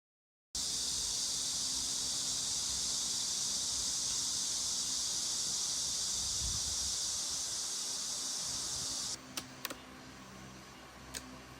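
Steady high-pitched hiss that cuts off suddenly about nine seconds in, followed by a few sharp clicks over a quieter background.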